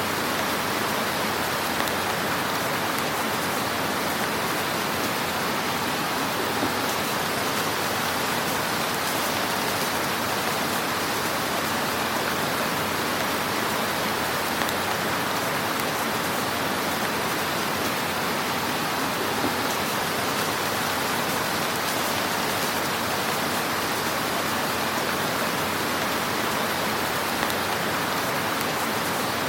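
Fire in a fireplace: a steady hiss with a few small, sharp crackles scattered through it.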